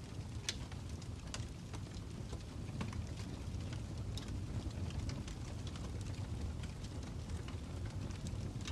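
Fire crackling: a steady low rumble with scattered sharp pops and snaps.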